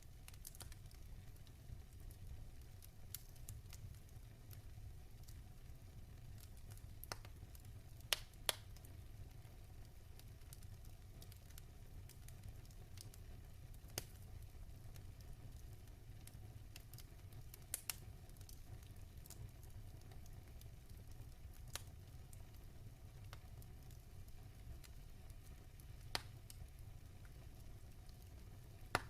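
Wood fire burning in a fireplace: a steady low rumble of flames with soft crackling and sharp, irregular pops of burning logs, the loudest a pair about eight seconds in.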